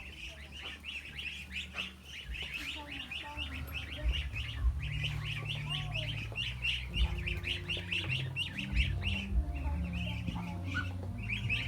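A brood of ducklings peeping: many short, high chirps overlapping in a continuous stream, several a second, with a low drone underneath.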